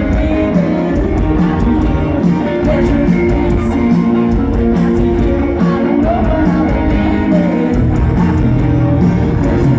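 Live rock band playing loud, guitar-led music, with a heavy bass and drum low end.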